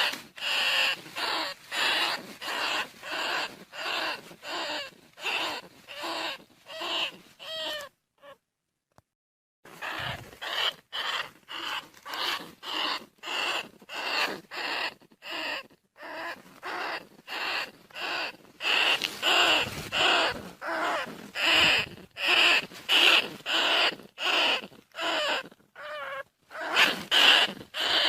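Bandicoot rat calls: a quick, even series of short squeaky cries, about two a second, with one pause of about a second and a half about eight seconds in. This is the rat call used to lure bandicoot rats in.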